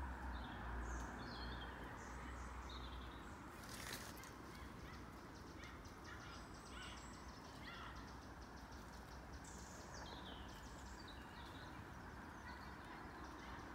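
Faint small birds chirping: many short, quick, falling high notes scattered throughout, over a steady outdoor hiss. A single brief sharp noise about four seconds in.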